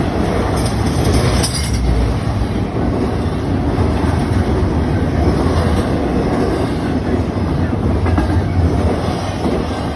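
CSX intermodal freight train passing at speed: a steady rumble with the clatter of its cars' wheels on the rail joints.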